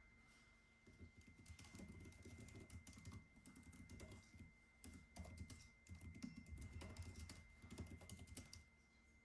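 Typing on a computer keyboard: a quiet, quick run of keystrokes starting about a second in, with a short pause midway, stopping just before the end. A faint steady high whine sounds underneath throughout.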